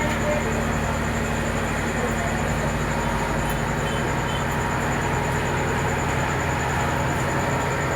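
Steady low mechanical rumble with hiss and a thin, constant high whine over it.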